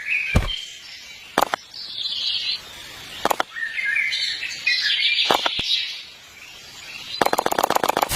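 Birds chirping in short bursts, with a few sharp knocks in between. Near the end a fast, even ticking begins.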